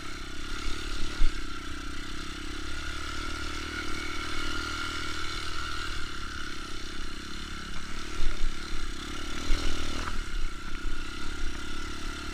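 Off-road trail motorcycle engine running as a steady, noisy drone, with a couple of brief louder surges about a second in and around eight seconds.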